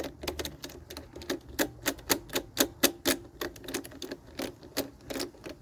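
Ratchet wrench clicking in a steady run, about four clicks a second, as a bolt is turned with a socket.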